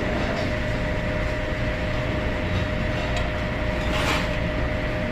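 Steady market background noise: a low rumble with a constant hum, and a few faint clicks.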